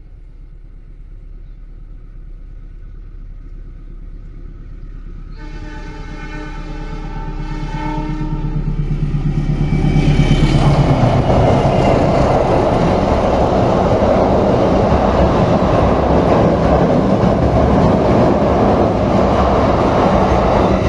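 The Papandayan express train's locomotive horn sounds in one long blast about five seconds in. The train then crosses the steel girder bridge with a loud rumble of wheels and engine that builds from about eight seconds in, holds steady from about ten seconds, and eases off as the last car passes at the very end.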